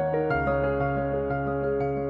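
Background music: soft new-age style keyboard with a sustained bass, notes changing about a third of a second in.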